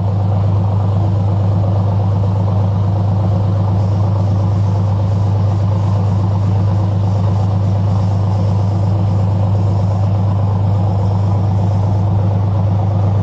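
Yuchai YC6T480C six-cylinder marine diesel engine running at a steady speed, with a strong, even low tone that does not change.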